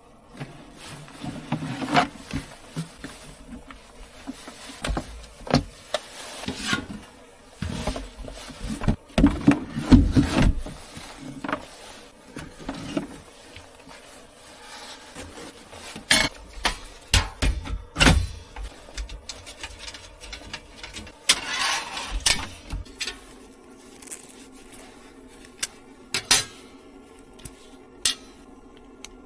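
Irregular clicks, knocks and thuds of things being handled, with a denser run of thuds partway through and a longer rustling scrape later on.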